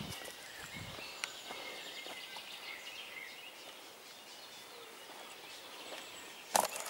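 Birds singing and calling: scattered short, high chirps and small whistled glides. A single sharp knock near the end is the loudest sound.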